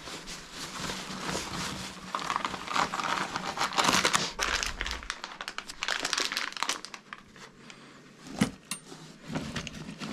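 Irregular crinkling and rustling of material being handled, loudest in the middle, with a sharp click near the end.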